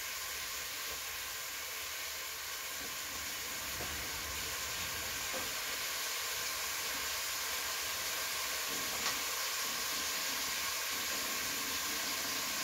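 Steady sizzle of chopped shallots and garlic frying in oil in a large aluminium pot on a gas burner, with a few faint clicks.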